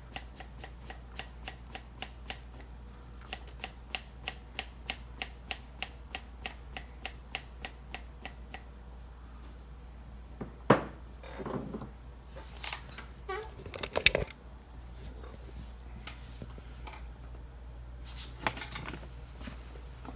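Hand vacuum pump of a crankcase leak tester being worked to pull vacuum on a two-stroke chainsaw crankcase: rapid even clicking, about three or four clicks a second, for about eight seconds. Then a few sharper knocks and clatters of the tool being handled, the loudest near the middle.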